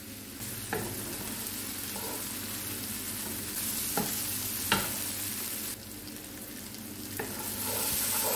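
Onion, tomato and spice masala (tadka) sizzling in a non-stick frying pan while a wooden spatula stirs and scrapes it, the tomatoes softening. A few sharp clicks of the spatula against the pan, the clearest about four and five seconds in.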